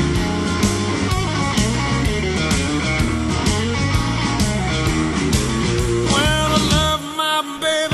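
Blues-rock music: an instrumental electric guitar break over bass and a steady drum beat. From about six seconds in, the lead guitar plays bent notes that rise in pitch, and the bass drops out briefly near the end.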